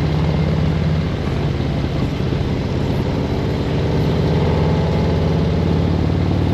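Harley-Davidson V-twin engine running steadily on the move, with a steady rush of wind and road noise over it.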